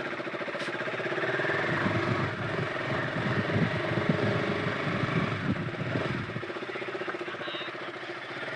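KTM RC 200 motorcycle's single-cylinder engine running with a steady throb, easing off a little near the end.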